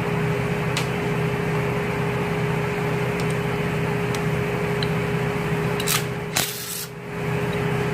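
Steady machine hum with a constant mid-pitched tone. A few sharp clicks and knocks come about a second in and again around six seconds in.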